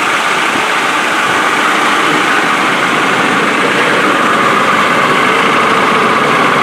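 Land Rover 2.4 TD4 turbo-diesel engine idling steadily.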